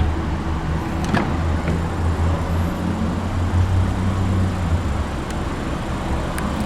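Lexus NX 200t's 2.0-litre turbocharged four-cylinder engine idling steadily with a low hum, with a single click about a second in.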